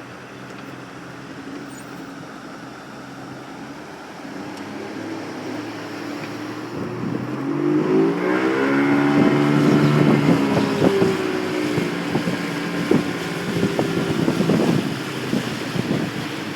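Vehicle engine running, with wind on the microphone. About eight seconds in the engine gets louder and rises in pitch as it speeds up, then holds steady.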